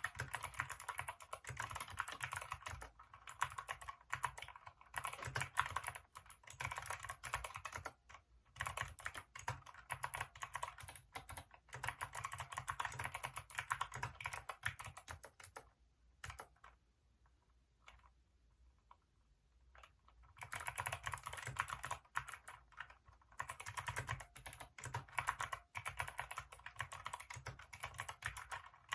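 Hacker K611 mechanical keyboard with Kailh optical switches being typed on fast and continuously. The typing stops for about four seconds past the middle, with only a few stray key clicks, then resumes at full pace.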